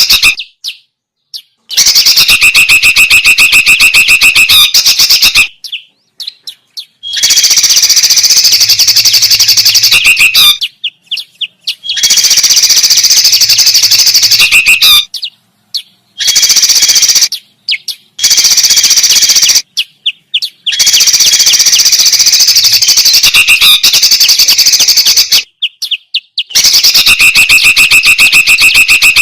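Bird-lure recording of loud, busy songbird calls: rapid chirping and trilling in blocks of a few seconds, each cutting off abruptly into silence before the next starts.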